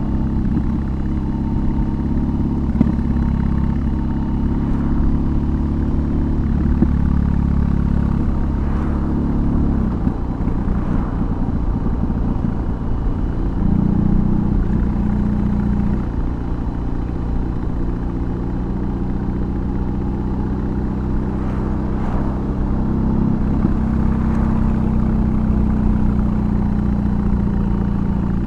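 BMW R18's big air/oil-cooled boxer twin, fitted with a custom exhaust, running under way. It pulls steadily, and about ten seconds in the engine note breaks off as the throttle is backed off. A few seconds later it comes back in and holds a steady note.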